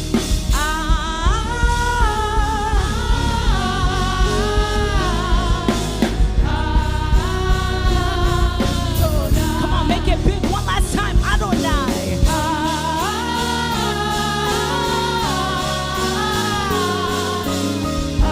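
Live gospel worship music: a singing voice with vibrato over a band with bass and drum kit. About two-thirds of the way through, the drum beat drops away while the bass and voice carry on.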